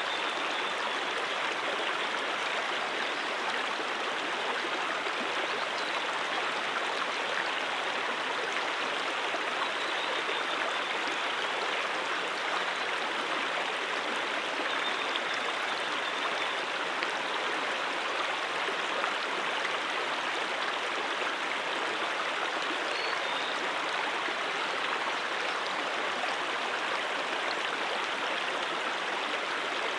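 Brook water flowing steadily, a continuous even rush and babble with no breaks or changes.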